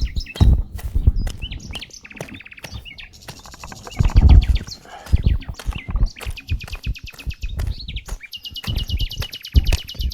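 Songbirds singing in rapid trills and chirps, with several dull low thumps among them, the loudest about four seconds in.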